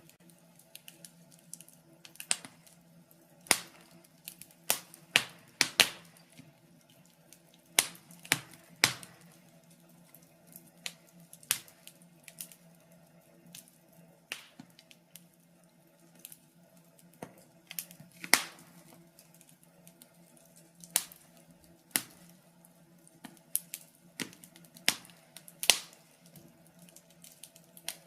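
Wood fire in a fireplace crackling: irregular sharp pops and snaps at uneven gaps, some much louder than others, over a faint steady low hum.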